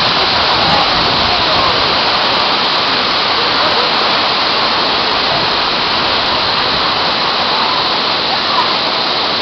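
Steady, loud rush of a waterfall's water pouring down, with faint voices now and then under it.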